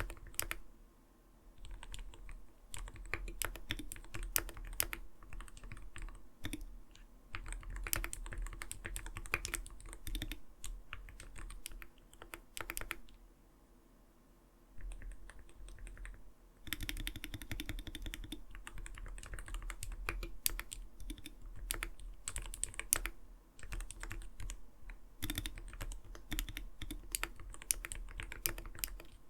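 Typing on an Arbiter Studio Polar 65 gaming mechanical keyboard: runs of rapid keystrokes with a soft, muted 'kotokoto' clack. The typing breaks off briefly about a second in and for a couple of seconds around the middle, then picks up again with a dense flurry.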